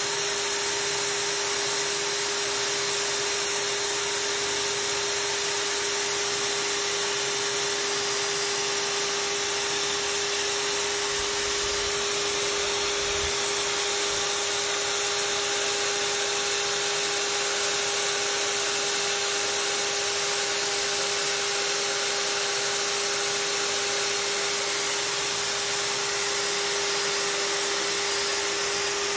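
Core drill running continuously at a steady speed: an even motor whine over a dense hiss, with no change in pitch.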